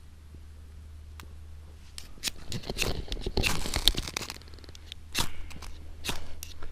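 Irregular crackling, tearing and scraping of dry birch bark and kindling being handled, starting about two seconds in, over a faint low hum.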